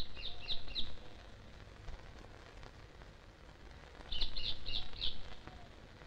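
A bird calling: a quick run of four or five short high chirps, repeated once about four seconds later.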